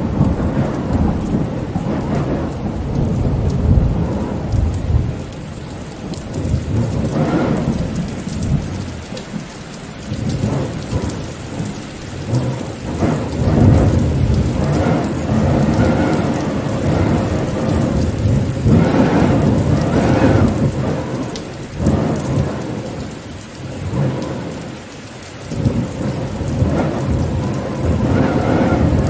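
Steady rain, with deep rumbling from the storm that swells and fades every few seconds.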